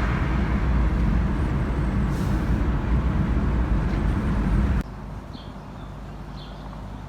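Honda CR-V's 2.0-litre B20 four-cylinder engine idling steadily, restarted and running on a new fuel pump relay. About five seconds in the sound drops suddenly to a quieter steady hum.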